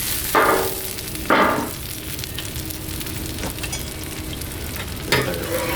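Potato wedges and chopped broccoli and carrots sizzling in oil on a Blackstone flat-top griddle. There are two brief louder rasps in the first two seconds and another near the end.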